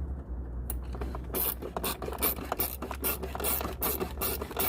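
A ratcheting hand tool clicking in quick repeated strokes, about five clicks a second from a second or so in, as a fastener on a motorcycle headlight mount is tightened back up.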